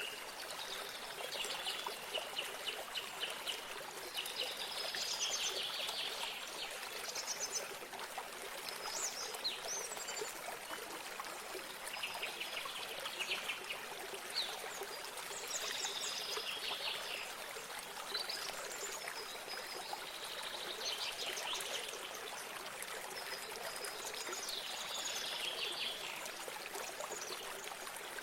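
Running water from a small stream trickling steadily, while a songbird repeats a short, fast trilled phrase every few seconds.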